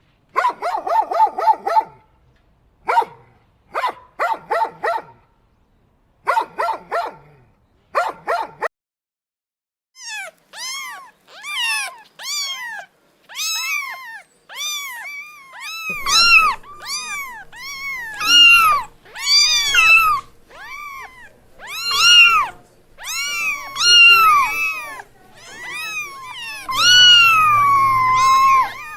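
Animal calls: four bursts of rapid, high yapping in the first nine seconds, then a long run of repeated high mews that each rise and fall, growing louder and overlapping toward the end.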